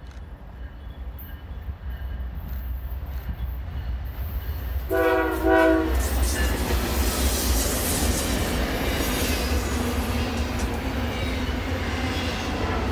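Norfolk Southern diesel freight locomotives approaching and passing, their low engine rumble building, with two short blasts on the multi-chime air horn about five seconds in. Then comes a steady rush of wheel and car noise as the double-stack container cars go by.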